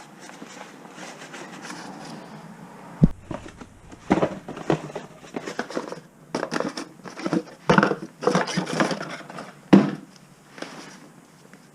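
Rustling, then a series of sharp knocks and clatter, as of tools and metal parts being handled; the loudest knocks come about three, eight and ten seconds in.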